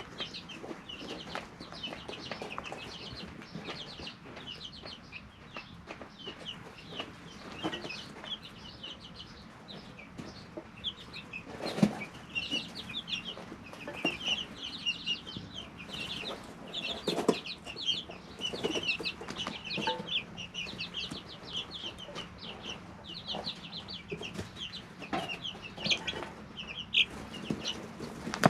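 A brood of three-week-old chicks peeping and chirping continuously, many short high cheeps overlapping, with occasional sharp knocks and taps, the loudest about 12 seconds in.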